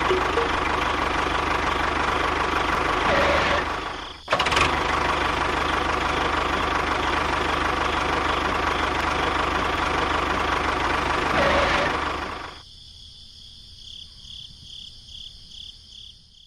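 Miniature DIY tractor's small engine running steadily, with a brief break about four seconds in. Near the end the engine sound drops away, leaving a faint tone pulsing about twice a second.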